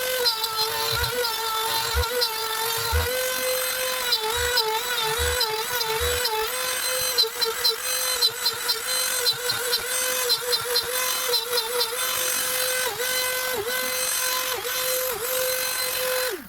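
Router spindle of a Genmitsu hobby CNC machine cutting plywood: a steady high whine whose pitch wavers and dips briefly several times as the bit takes load, with short sharp ticks and shifting higher tones from the machine's motion.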